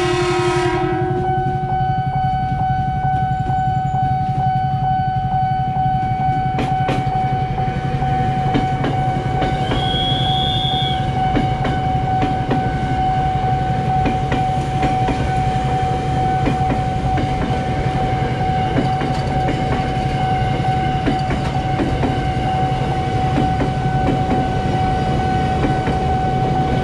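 KRL Commuter Line electric train passing close by: a short horn blast as it comes in, then a steady low rumble of the train rolling with rhythmic wheel clacks over the rail joints. A steady high warning tone, typical of the level-crossing signal, sounds over it.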